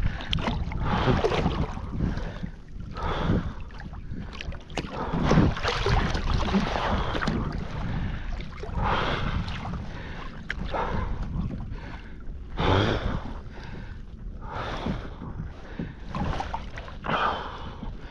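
Water splashing and sloshing in uneven surges every second or two as a swimmer struggles to tow a kayak, with wind buffeting the microphone.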